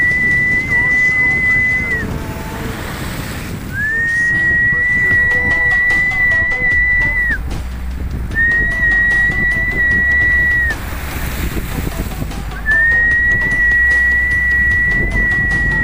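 Four long, steady, high whistled notes, each held two to three seconds with a short slide up at the start and a drop at the end, over a low rumble of wind and surf.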